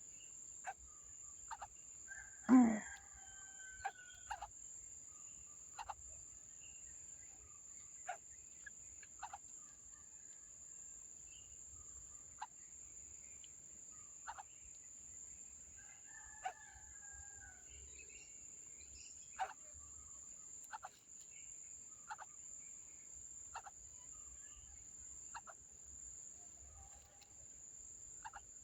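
A steady high-pitched insect drone with short chirps repeating about once a second, and a few bird calls; the loudest is a sharp call about two and a half seconds in, with a longer call with a falling tail following it.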